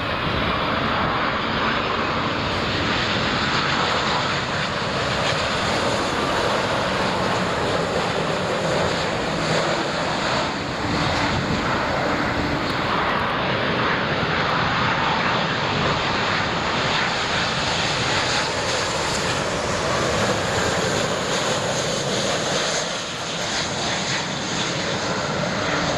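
Jet engines of an Air India Boeing 787 Dreamliner, a steady, even jet noise that holds for the whole stretch with only a brief dip near the end.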